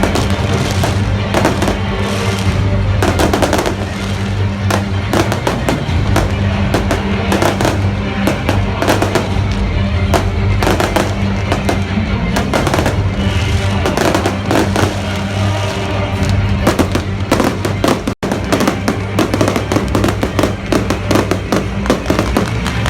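Aerial fireworks bursting in a rapid, irregular barrage of bangs and crackles over loud music with a steady bass.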